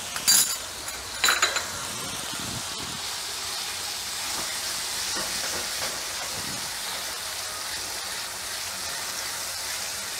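Onion masala sizzling in oil in a non-stick pan as ginger-chilli-garlic paste is stirred in with a silicone spatula, a steady frying hiss. Two short knocks against the pan come in the first second and a half.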